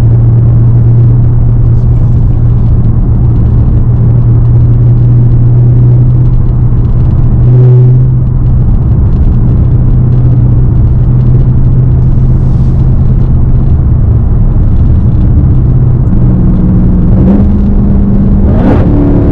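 Straight-piped supercharged 6.2-litre Hellcat V8 exhaust, loud and droning steadily at a constant cruise. The pitch steps up about three-quarters of the way through, and there is a rising rev near the end.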